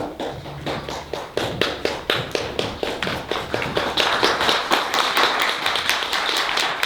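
Audience applause, starting as scattered claps and swelling into full clapping about four seconds in.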